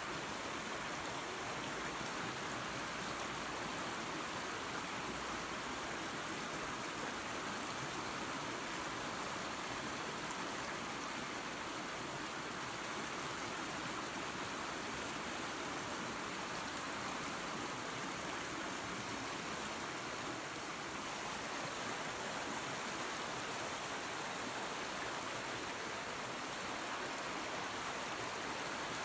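Waterfall and creek running water: a steady, even rush of falling and flowing water.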